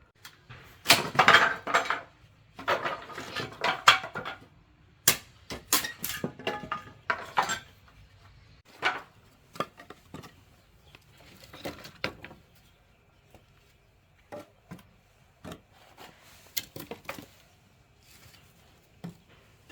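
Irregular clatter and knocks of hard objects being handled, dense and loud for the first eight seconds, then sparser and fainter.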